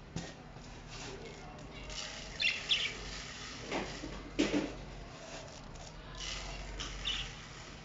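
Caged pet birds chirping briefly a few times, with a couple of dull knocks or rustles in between.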